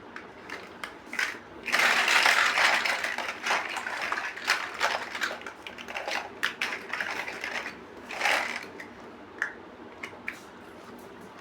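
Plastic building bricks clattering together for about two seconds as they are handled, then a run of scattered sharp clicks and short rattles, thinning out to a few single clicks near the end.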